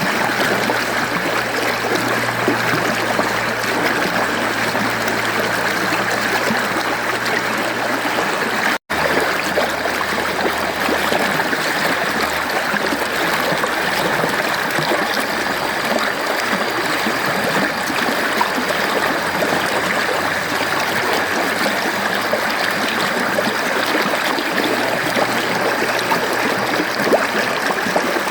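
Mountain stream flowing in a steady rush of running water, with a momentary dropout to silence about nine seconds in.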